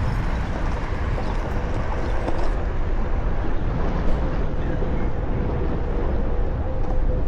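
Steady rush of wind and rolling noise from riding a Onewheel electric board, with a faint steady whine joining about two and a half seconds in.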